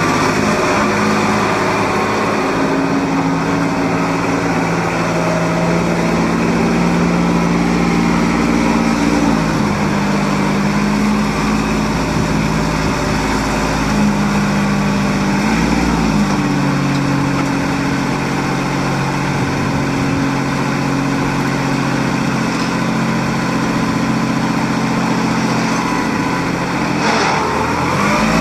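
Kubota L35's 35 hp Kubota diesel engine running steadily. Its speed dips and settles briefly a few times, around a third of the way in, near the middle and near the end.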